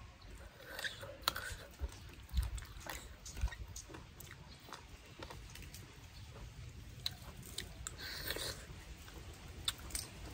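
Close-up eating sounds: a person chewing and biting a mouthful of spicy papaya salad with rice noodles and blood cockles, with irregular sharp clicks.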